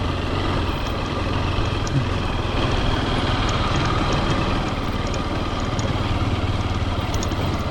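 Honda CRF150L's single-cylinder four-stroke engine running steadily as the motorcycle is ridden along.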